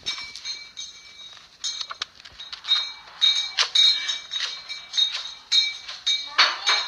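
Irregular sharp clinks and clicks from an old audio recording, roughly one to three a second, over a faint steady high-pitched whine. The clicks grow louder after the first few seconds, and a longer scraping stroke comes near the end.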